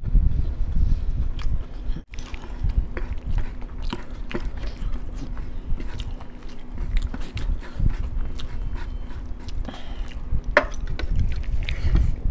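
Close-up chewing of masala rice, with many small wet mouth clicks and smacks. A brief gap about two seconds in, and one sharper click near the end.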